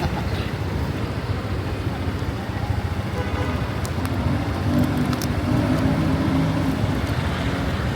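Street traffic: vehicle engines running at close range, with one engine's hum growing more prominent about four seconds in and lasting nearly to the end.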